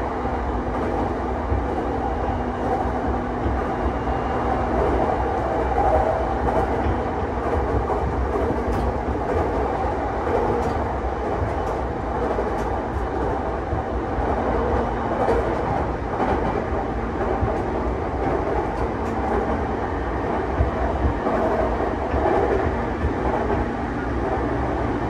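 Running sound inside a JR East E233-5000 series electric train travelling at speed: a steady rumble of wheels on rail with a few clicks over the track. A faint steady hum fades out about five seconds in and comes back in the second half.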